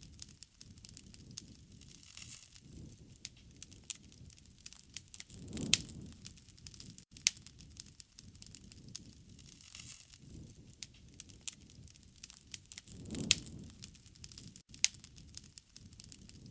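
Wood fire crackling, with sharp pops at irregular intervals throughout. A low rush of flame swells twice, about six seconds in and again about thirteen seconds in.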